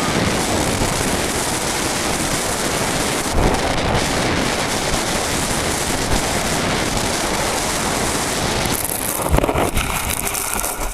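Steady rush of wind over the microphone of the camera carried on an RC model plane in flight, with no motor tone under it. The wind noise falls away suddenly at the very end.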